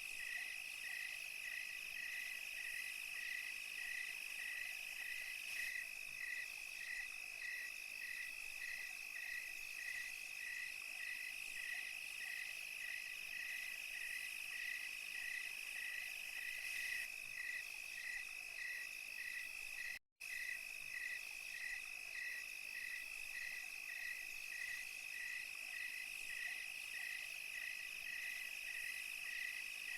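Night insect chorus: a continuous high trill with a cricket chirping evenly about twice a second over it. About two-thirds of the way through, the sound cuts out for an instant.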